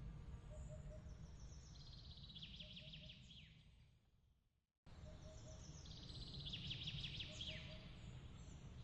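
A songbird singing a fast trill, twice, over a low steady rumble and faint short chirps in little groups. The sound fades out to silence about four and a half seconds in, then cuts straight back in with the same song.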